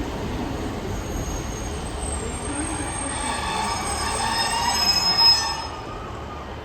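Passenger train drawing into the station over a low rumble, its brakes squealing in several high shrill tones. The squeal starts about halfway through, swells, and peaks sharply just before cutting off as the train comes to a stop.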